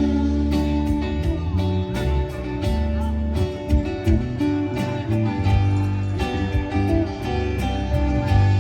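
A rock-pop band playing an instrumental passage with guitar, bass and drums, with no singing over it.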